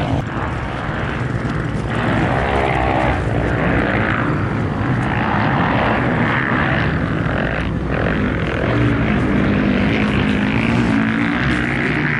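Motocross bike engines running on the track, their pitch rising and falling as they rev.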